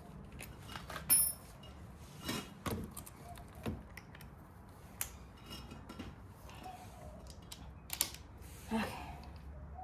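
Scattered clicks and knocks of drills being handled and swapped over: tools picked up, set down and clicked, several separate knocks a second or more apart, with no drill running.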